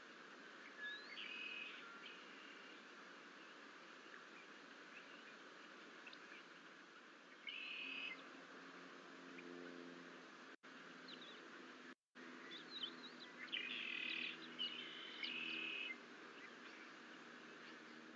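Faint bird calls, short clusters of high chirps, a few times over a steady outdoor hiss, with a low hum coming in about halfway. The sound drops out completely twice for a moment.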